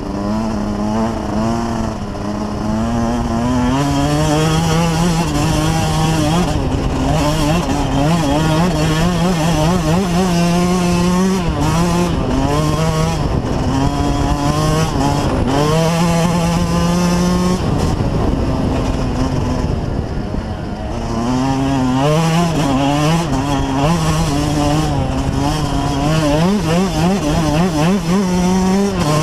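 Dirt bike engines running hard, the pitch climbing and dropping over and over as the riders accelerate, shift and ease off the throttle.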